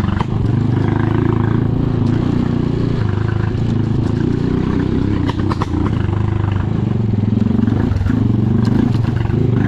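Motorcycle engine running steadily while riding, with a few brief clattering knocks about halfway through.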